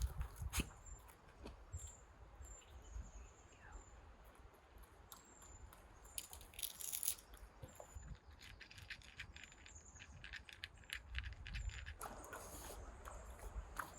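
Faint outdoor ambience: short high chirps repeating every second or so over a light low rumble, with clusters of small sharp clicks and rattles from about five seconds in.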